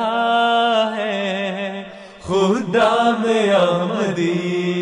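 Unaccompanied voice singing a devotional chant in long held notes that waver in pitch. The singing breaks off briefly about two seconds in.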